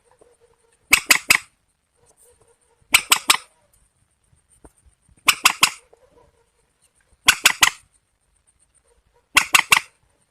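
Repeated calls of a rail-family waterbird, from a bird-call recording: sharp, harsh notes in quick groups of three, each group repeated about every two seconds, five times.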